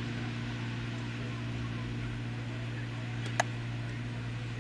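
Steady low machinery hum with faint distant voices, and one sharp click about three and a half seconds in.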